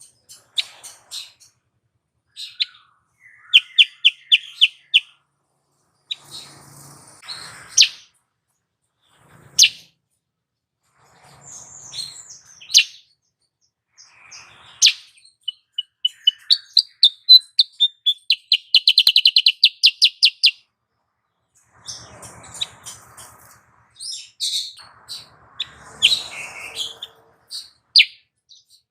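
A female kutilang sutra bulbul calling: sharp chirps and short whistled notes in scattered bursts, with fast rattling trills of repeated notes near the start and again around two-thirds of the way through. These are female calls used as a lure to stir male birds into song.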